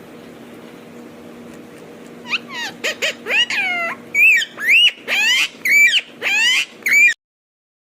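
Ringneck parrot vocalising: a fast run of loud, high-pitched calls that glide up and down, starting about two seconds in over a steady low hum, and cutting off suddenly near the end.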